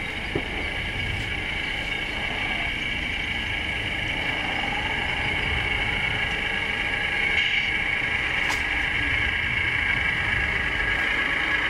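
Radio-controlled scale model trucks running, a steady high whine over a low rumble, with a sharp tick about eight seconds in.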